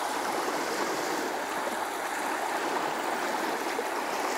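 Small waves washing up the beach and water running back off the stones and sand, a steady rushing.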